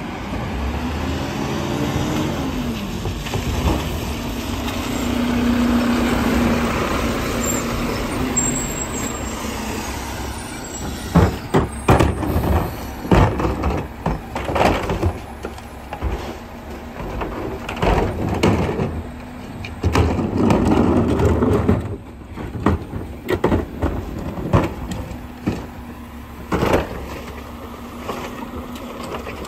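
Garbage truck running with a steady engine sound and hum. About a third of the way in, a run of sharp bangs and clatters begins as the truck tosses and dumps broken bins.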